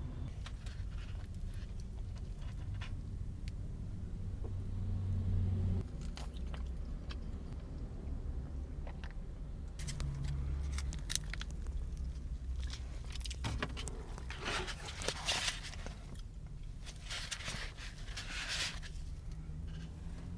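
Crinkling, rustling and clicking from handling food packaging, with two longer crinkly bursts in the second half, over a low steady rumble of a car cabin.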